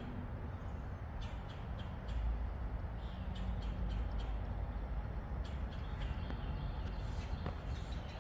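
Steady low rumble of highway traffic, with many short ticks and small bird calls scattered over it.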